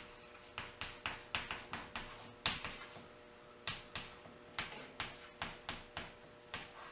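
Irregular light taps and clicks, a dozen or more spread over several seconds, as the wooden hive's aluminum-sheathed lid and cover are handled. A faint steady hum runs underneath.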